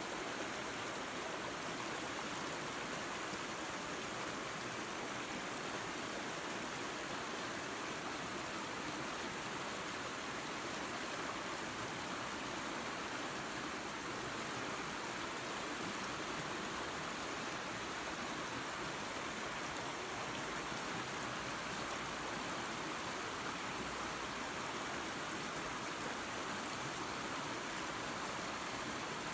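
Small waterfall and creek: water running and splashing in a steady rush without a break.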